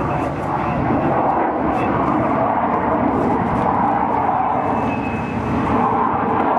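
Steady jet noise from an English Electric Canberra's two Rolls-Royce Avon turbojets as it flies past.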